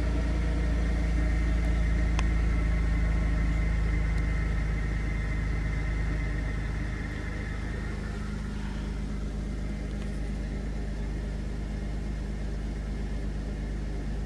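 1993 Chrysler Town & Country minivan's V6 engine idling rough just after a cold start in freezing weather; about seven seconds in the idle drops and the sound becomes quieter, then holds steady. The owner suspects a small exhaust leak and a rich mixture.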